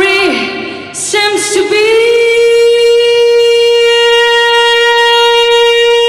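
A female singer's voice sings a short phrase, then slides up and holds one long, steady high note.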